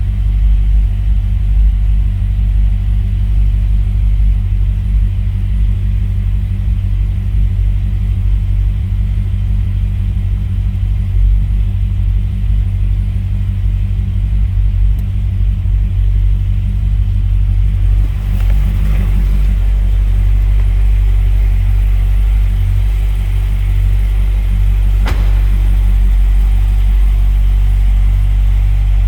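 2006 Corvette Z06's 7.0-litre LS7 V8 idling steadily after a cold start, a low, even exhaust rumble. A single sharp click comes near the end.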